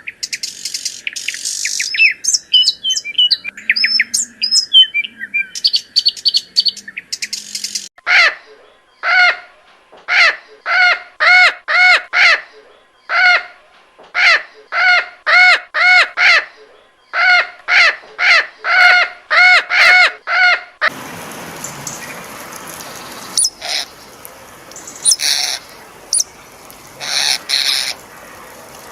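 Birds calling in a series of different recordings: first rapid, high chirps and trills, then a loud pitched call repeated in quick runs of two to four, and in the last third a hissy background with scattered high calls.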